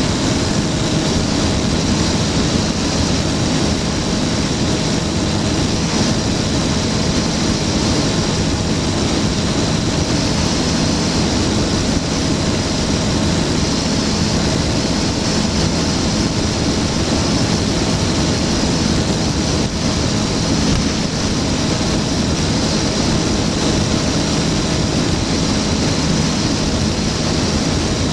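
Flightstar II light sport aircraft's engine and propeller running at a steady, unchanging drone.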